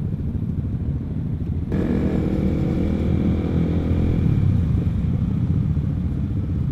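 Motorcycle running at riding speed with heavy wind rumble on the microphone. About two seconds in a steady engine note comes in, holds, and fades out about two seconds later.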